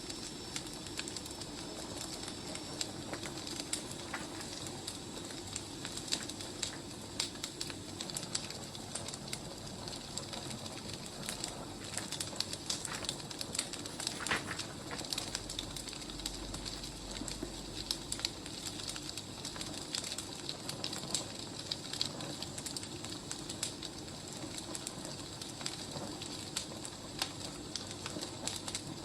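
Wood fire burning, crackling and popping with many irregular sharp snaps over a steady low rush.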